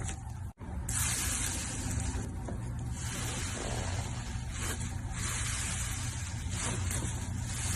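Slime being squished and stretched by hand: a crackly, hissing wet texture that swells and fades irregularly, after a brief cut to silence about half a second in.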